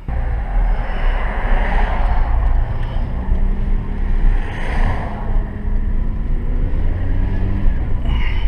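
Citroën C2 being driven on the road: engine running with steady road and tyre noise, starting abruptly at full level.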